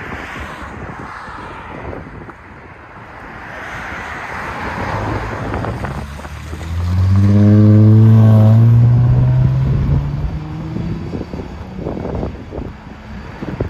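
2018 Lexus GS 350's 3.5-litre V6 with its rear mufflers deleted and resonators kept, accelerating: the exhaust note climbs slowly in pitch and swells to its loudest about seven to nine seconds in, then fades away.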